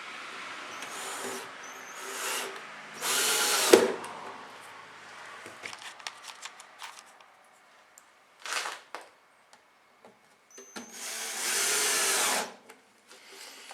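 Power drill driving short screws through an aluminium corner strip into the wooden corner of a beehive, in several separate runs with pauses between. The longest runs are about four seconds in and near the end, and the one near four seconds ends in a sharp click.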